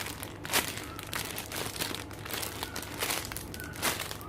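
Plastic packaging crinkling in irregular little crackles as a squishy toy is handled and squeezed.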